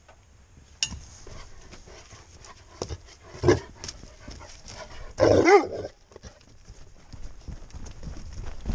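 A dog makes two short vocal sounds, a brief one about three and a half seconds in and a louder, longer one with a wavering pitch about five seconds in. A single click comes near the start.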